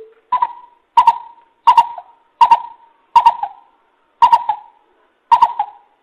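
Coucal lure call: a series of seven deep hoots, about one every 0.7 to 1 second, each starting sharply and fading quickly.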